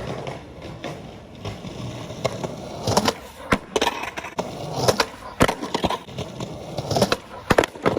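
Skateboard wheels rolling on hard ground, with several sharp wooden clacks of the board popping and hitting the ground during kickflip attempts, the loudest about three and a half, five and a half and seven and a half seconds in.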